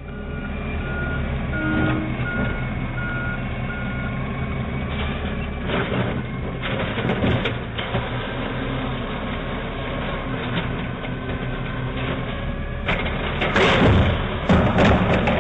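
Heavy vehicle engine running, with a reversing alarm beeping about twice a second for the first few seconds. Near the end a louder rough noise sets in over the engine.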